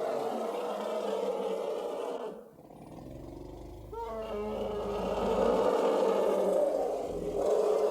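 A large animal's long, loud calls: one that ends about two and a half seconds in, then after a quieter gap another, sliding in pitch, from about four seconds in.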